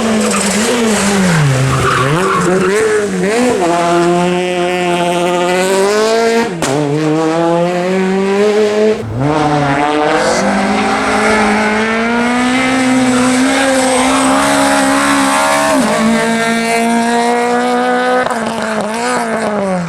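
R2-class rally car engine revving hard, its pitch climbing and falling with each gear change and lift, with tyre squeal. The engine sound breaks off abruptly twice, once about six seconds in and again about nine seconds in.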